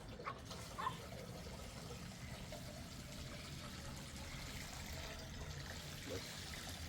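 Steady rush of liquid, like water being poured or running, with a few short chirps over it near the start and once near the end.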